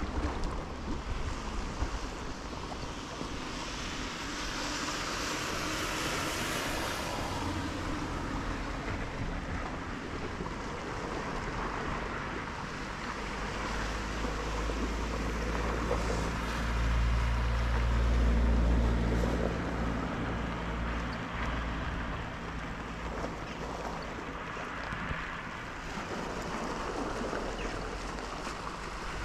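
Steady outdoor wash of rain, wind and seawater, with a low motor hum rising about halfway through, peaking, then fading a few seconds before the end.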